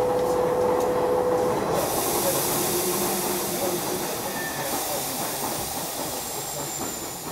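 Electric trains in a station: the rumble of a train pulling out on the adjacent track fades away. About two seconds in, a sharp hiss of compressed air starts, breaks off briefly, and resumes.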